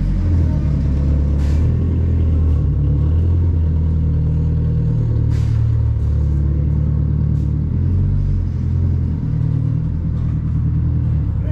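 Turbocharged Acura RSX's engine idling with a steady low rumble and small changes in pitch as the car moves slowly out of the shop. Two short sharp knocks come through, one early and one about five seconds in.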